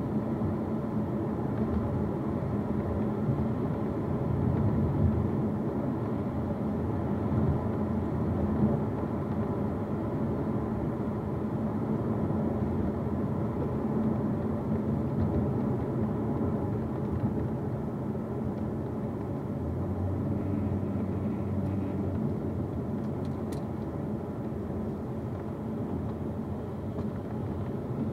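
Car cabin noise while driving: a steady road and drivetrain drone, with a small rattle from the rear of the car.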